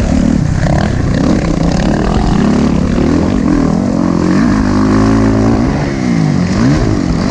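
Motocross dirt bike engine running hard on the track, its pitch rising and falling with throttle and gear changes, with a sharp drop and climb back up near the end.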